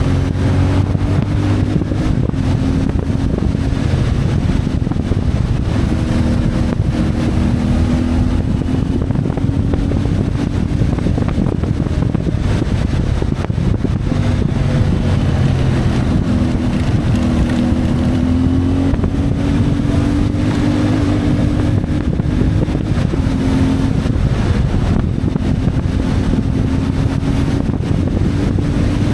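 CFMoto 450MT's parallel-twin engine running on the move, its pitch rising and falling gently with the throttle, with some wind noise on the microphone.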